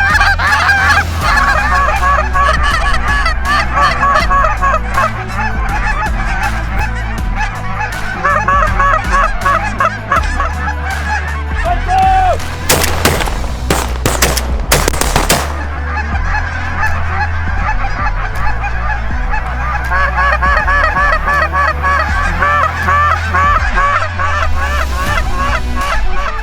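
A flock of geese honking continuously, many birds calling over each other. About halfway through, a quick volley of several shotgun shots cuts through the calling.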